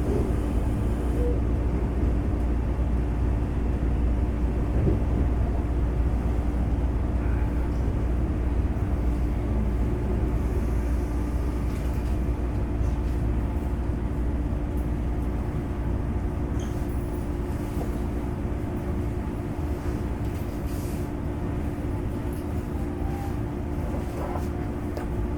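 Inside a Semboku Rapid Railway 5000 series electric train car standing at a station: a steady hum from the air conditioning and onboard equipment over a low rumble, with a few faint clicks.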